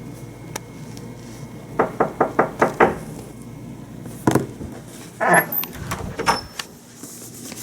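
Knocking: a quick run of about six knocks about two seconds in, followed by a few single knocks and clicks.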